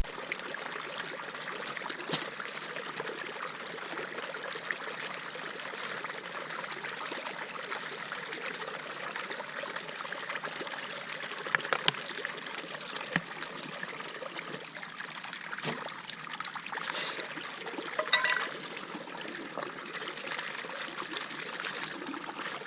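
Small stream of water trickling steadily, with a few sharp clicks and a brief louder noise about three-quarters of the way through.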